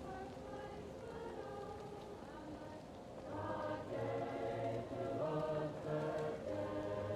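Choir singing slow, held notes, muffled as if heard from another room. About halfway through it swells louder and fuller as low bass notes join in.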